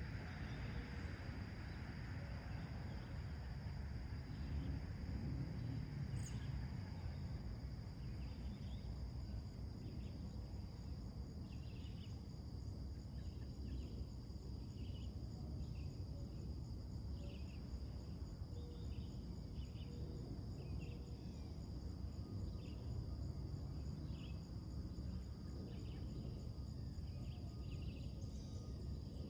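Morning outdoor ambience: a steady high drone of insects runs throughout, over a low steady rumble. From about a third of the way in, a bird gives short chirps over and over, roughly one or two a second.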